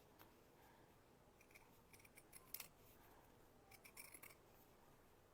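Faint snips of sewing scissors cutting through cotton fabric, coming in irregular bunches.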